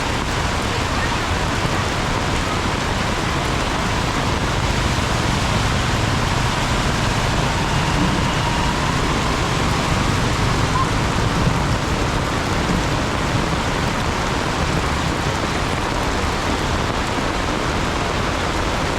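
Heavy rain pouring steadily in a tropical downpour, a dense, unbroken hiss of rainfall.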